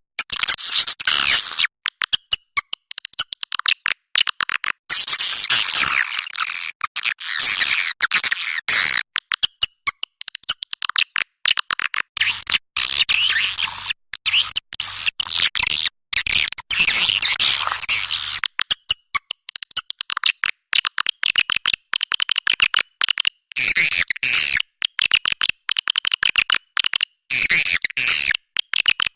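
Edible-nest swiftlets twittering in a dense, high-pitched stream of rapid chirps, cut by frequent abrupt gaps. This is a swiftlet calling recording, the kind played to lure the birds into a nesting house.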